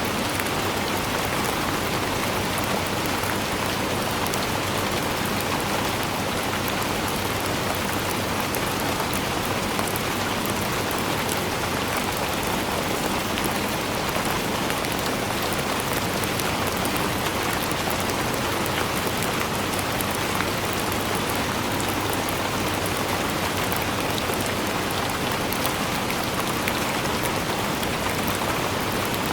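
Steady, even rainfall pattering on a surface, with fine drop ticks scattered through it.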